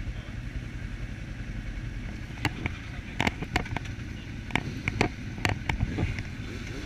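Suzuki SV650S V-twin motorcycle running, heard as a steady low rumble through a chest-mounted camera. From about two and a half seconds in comes a string of sharp, irregular clicks and knocks.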